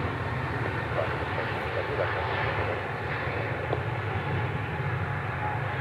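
Jet airliner's engines running, a steady low rumble with a broad rush of jet noise, as an aircraft takes off.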